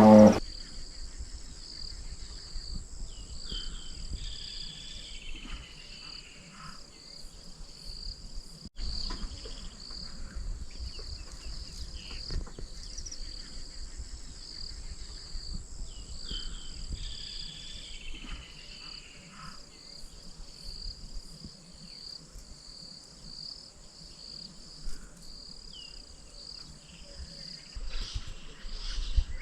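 Insects chirping steadily in a fast, high-pitched pulsing chorus, with a bird giving short whistled calls a few times over it.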